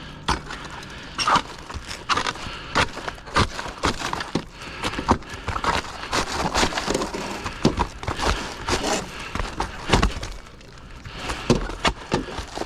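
Irregular knocks, taps and scrapes of hand work on a roof during roof preparation, with many sharp clicks and a heavier knock about ten seconds in.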